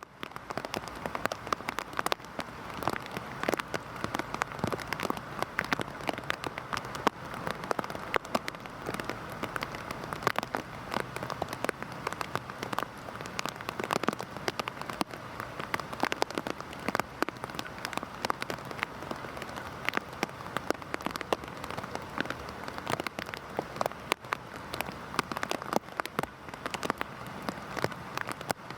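Heavy rain falling steadily, a dense hiss with many sharp individual drops splattering onto a surface.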